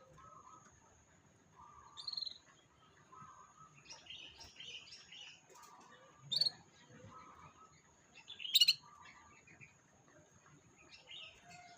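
Canary chirping in short scattered calls, with a few sharp, loud chirps, over a lower note repeating about once a second and a steady high whine.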